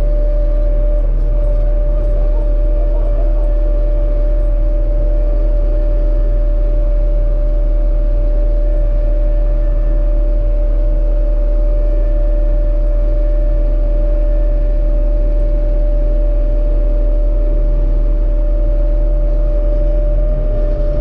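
Claas Dominator 85 combine harvester travelling flat out, heard from inside its cab: a steady, loud engine rumble with a constant high whine over it.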